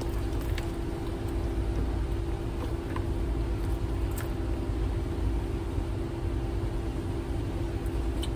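Steady car-cabin noise with the windows up: the engine running with a low rumble and the air conditioning blowing on high, with a few faint clicks.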